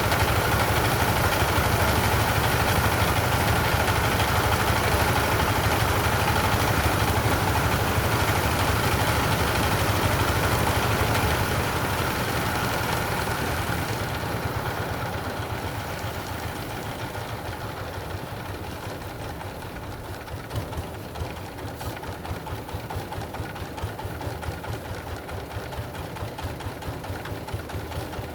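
An engine running steadily. It grows quieter about halfway through and settles at a lower level with a fast, even pulsing.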